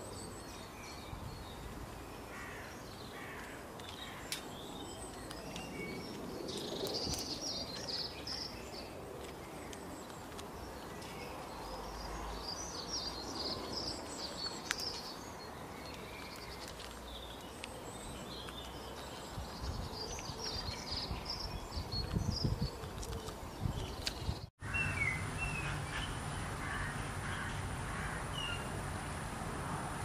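Outdoor garden ambience: small birds chirp and call now and then over a low steady background noise. About two-thirds of the way through the sound breaks off and gives way to a steadier background with a faint high steady tone and a few chirps.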